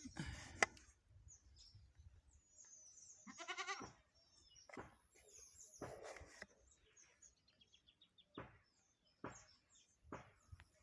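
A goat bleats once, a wavering call a little over three seconds in. Around it are a sharp click near the start and scattered faint knocks.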